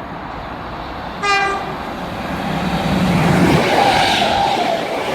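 Class 319 electric multiple unit giving a short single-tone horn blast about a second in, then passing through the station, its running noise building up.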